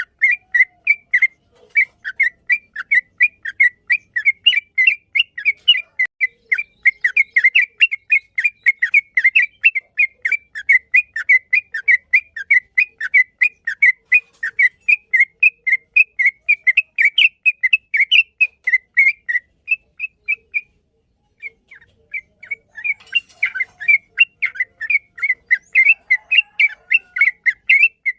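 Yellow-vented bulbul (trucukan) singing a long, fast run of repeated chirping notes, about five a second. The run breaks off for about a second two-thirds of the way through, then carries on.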